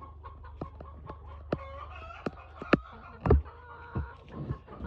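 Free-range chickens clucking, with sharp clicks and knocks scattered through; the loudest is a thump about two-thirds of the way in. A steady low hum lies underneath.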